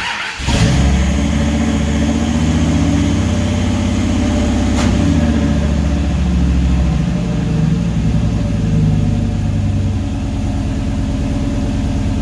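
Kaiser Jeep M715's V10 engine running through its custom full exhaust at a steady, deep idle. The lowest rumble eases about seven seconds in, and there is a single light click near five seconds.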